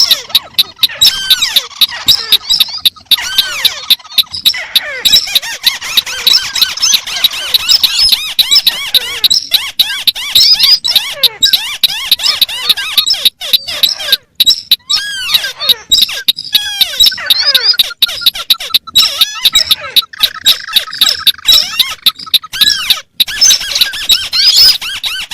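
Recorded calls of several crakes played together, including the white-browed crake: a dense, unbroken chorus of overlapping squeaky chirps and short glides, not in time with one another. It is a lure call used to draw rails and crakes in.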